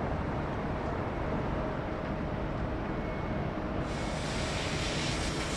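Steady rumble of jet airliner engines outdoors, with a hiss that suddenly grows brighter and louder about four seconds in.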